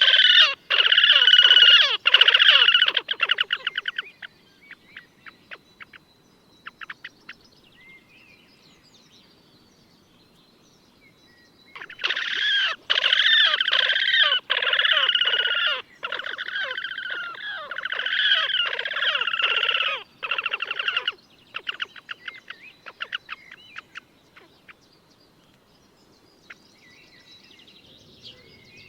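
Slavonian grebes giving long, rapid trilling calls in two bouts, each trailing off into slower, fading notes.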